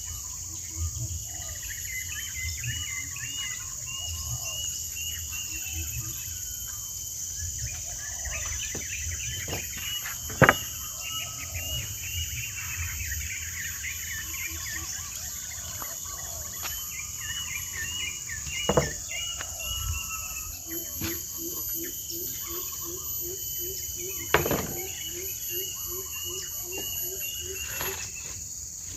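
Rural ambience: a steady high drone of insects with birds chirping and warbling over it. Three sharp knocks stand out, about a third of the way in, near two thirds and again a few seconds later, and in the second half a low call repeats about three times a second.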